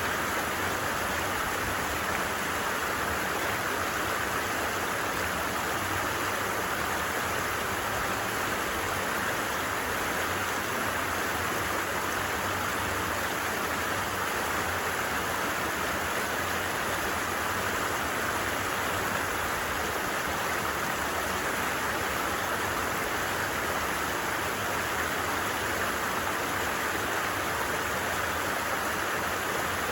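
A stream running: a steady, even rush of water with no breaks.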